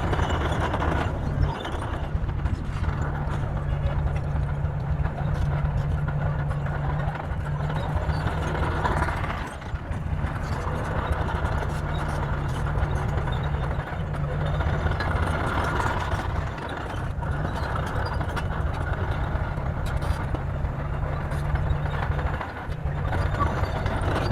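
Bulldozer's diesel engine running steadily with a low hum, easing off briefly twice.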